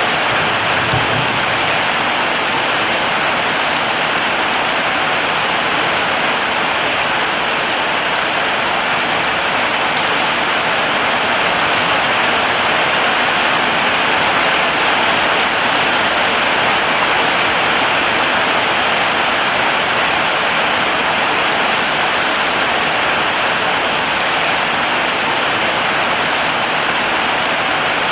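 Heavy rain falling steadily, an even hiss of countless drops without let-up. There is a faint low thump about a second in.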